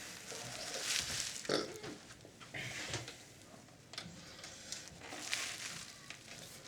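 Scattered clicks, scrapes and rustles of hands working inside a Sharp VC-573E video recorder, pulling at wiring and connectors.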